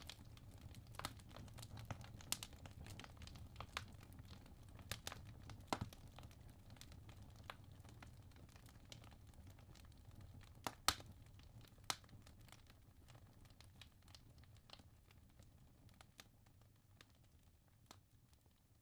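Wood logs burning in a fireplace, crackling with scattered sharp pops over a low steady rumble of flame. The loudest pop comes about eleven seconds in, and the sound grows fainter toward the end.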